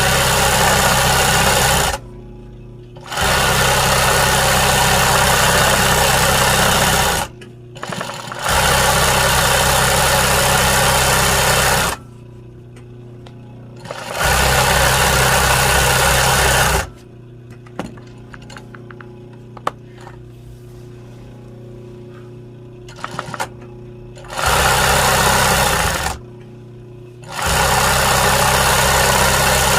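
Sewing machine stitching an embroidery in starts and stops: six runs of steady running, each a few seconds long, with short pauses between them. During the longer pause near the middle there are a few light clicks.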